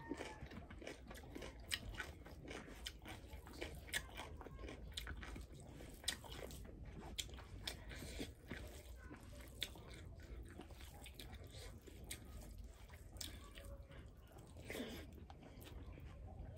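Close-up chewing and lip-smacking of a mouthful of rice and fried fish eaten by hand, with frequent short wet clicks and light crunches.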